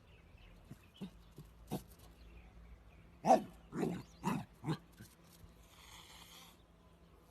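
An animal making four short calls in quick succession about three seconds in, followed by a short breathy noise.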